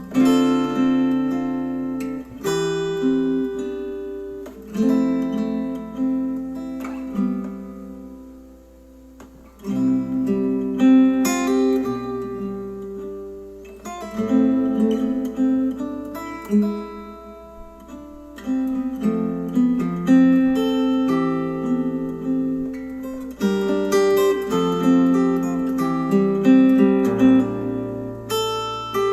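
Instrumental acoustic guitar music, strummed and plucked chords ringing and decaying one after another, played back through Polk Audio Reserve R200 bookshelf speakers. It goes soft about eight seconds in before firm strummed chords return.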